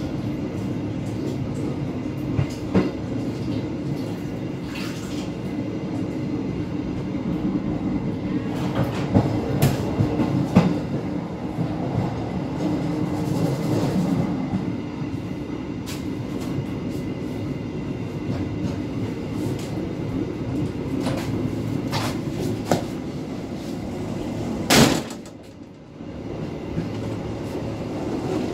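Passenger train coaches running along the track: a steady rumble of wheels on rail with sharp clicks at irregular intervals, and a louder clatter near the end followed by a brief drop in level.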